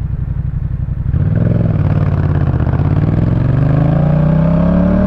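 Yamaha MT-07's parallel-twin engine through a Jeskap K4 full exhaust, idling with an even low pulse, then opening up about a second in and pulling away, its note rising steadily in pitch as the bike accelerates.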